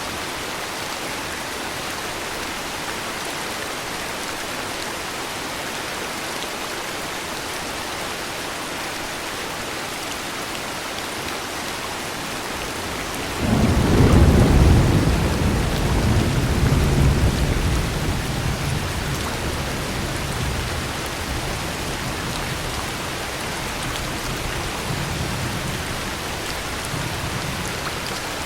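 Steady heavy rain, and about halfway through a clap of thunder breaks in suddenly with a deep rumble that rolls on, slowly dying away under the rain.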